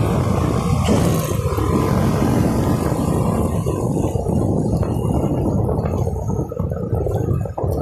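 Steady low rumble of a ride on the move, vehicle and road noise mixed with buffeting on the microphone. The higher hiss fades about halfway through, leaving mostly the deep rumble.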